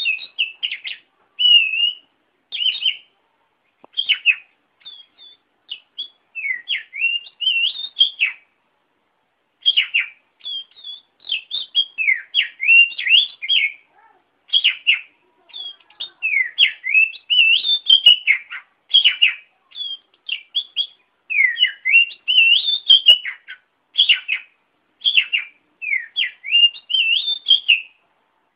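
Oriental magpie-robin (kacer) singing a rapid string of varied whistled phrases that sweep up and down, with short pauses between phrases and a longer break about nine seconds in.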